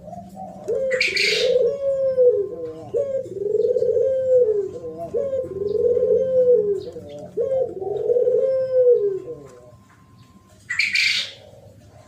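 Spotted dove cooing: a run of low, arching coos repeated for about nine seconds. A short hissing rustle comes about a second in and again near the end, with faint chirps of small birds.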